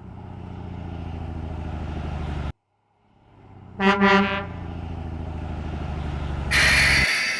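Truck sound effects: a steady low engine rumble that cuts off abruptly, a short horn honk a little over halfway through, then the rumble again, ending in a loud hiss.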